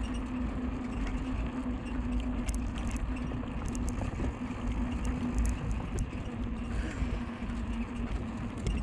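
Bicycle being ridden, with wind rumbling on the microphone, a steady hum, and light clicks and rattles from the bike, which is noisy and squeaky after being left out in the rain.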